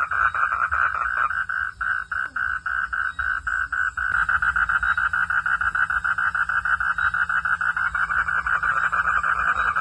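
Frogs calling at night in a chorus of rapid, evenly pulsed calls. The pulses thin out into separate beats about one and a half seconds in, then fill back in, denser and louder, about four seconds in, over a faint low hum.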